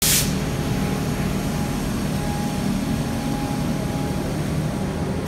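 Metro Trains Melbourne X'Trapolis 100 electric suburban train moving along the platform: a steady, loud rumble of the train running on the rails, with a faint steady tone above it. A brief burst of hiss at the very start.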